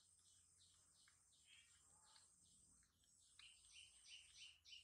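Faint background bird chirping: short high notes repeated a few times a second, louder and quicker about three and a half seconds in, over a steady high insect-like hiss.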